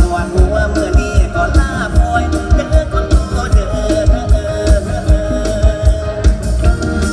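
Live mor lam band music from Isan, played with a steady, driving drum beat under a held melody line.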